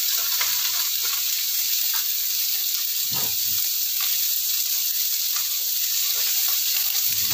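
Green beans and roast chicken pieces sizzling in a nonstick wok: a steady, even frying hiss with a couple of faint low knocks.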